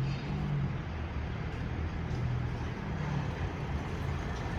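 Truck engine running at low revs, a steady low hum that rises and falls slightly in pitch.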